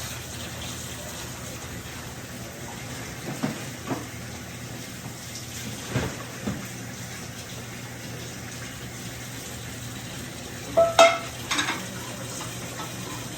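Kitchen work sounds: a steady hiss with a low hum under it, a few single clinks of utensils, and a short clatter of dishes about eleven seconds in.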